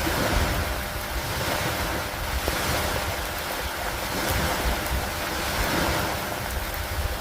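Steady rain with wind: a full hiss that swells and eases every second or two, over a steady low rumble.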